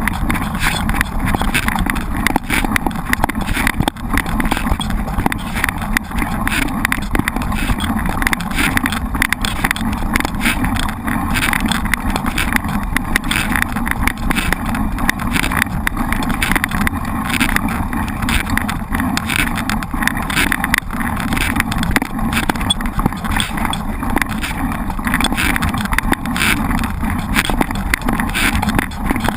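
Mountain bike on the move: a steady rush of wind on the microphone and tyre noise on the trail, with a fine rattling crackle throughout.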